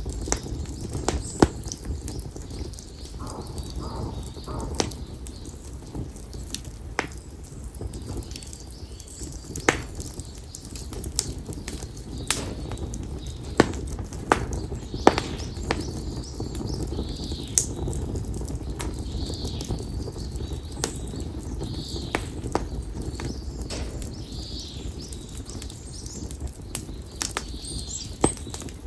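Konara oak firewood burning in an open fire, crackling and popping, with sharp pops at irregular intervals over a low steady rumble of the flames.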